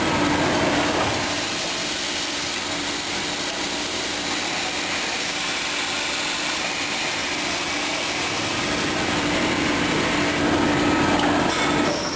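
Steady running noise of industrial machinery, with a low hum that is louder about a second in and again near the end.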